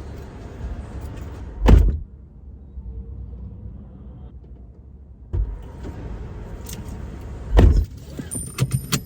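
Car cabin noise while driving: a steady low rumble of engine and road, with two loud thumps, one about two seconds in and one near the end.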